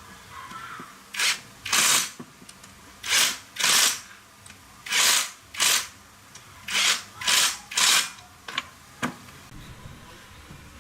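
Short bursts of hissing spray from a nozzle, about nine in all and mostly in quick pairs about half a second apart.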